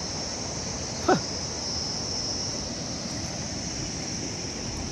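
Steady high-pitched chorus of insects, with one short call sweeping sharply down in pitch about a second in.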